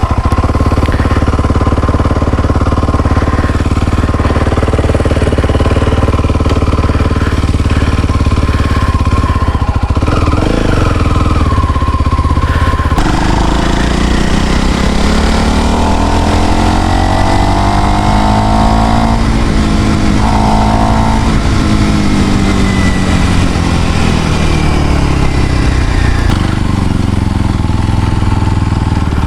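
Kawasaki KLX 230 SM's single-cylinder four-stroke engine, fitted with a modified exhaust, idling steadily. About thirteen seconds in it changes and is revved, its pitch rising and falling slowly several times.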